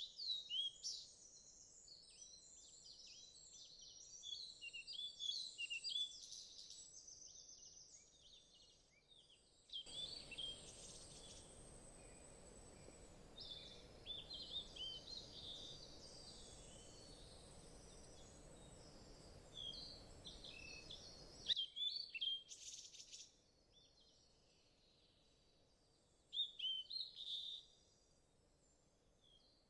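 Faint birdsong: small birds chirping in many short calls. A soft, steady hiss joins for about ten seconds in the middle.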